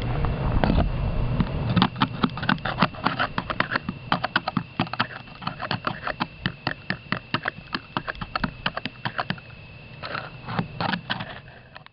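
Rapid run of sharp crunching clicks on ice, several each second, dying away about nine and a half seconds in, with a few more near the end. A faint steady high tone sounds throughout.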